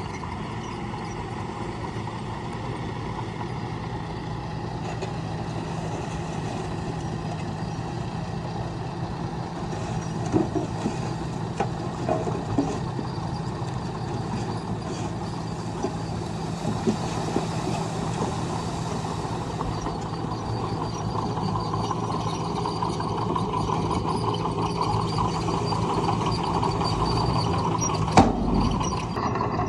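Diesel engine of earthmoving machinery running steadily and slowly growing louder, with a few short metallic knocks around the middle and one sharp knock near the end.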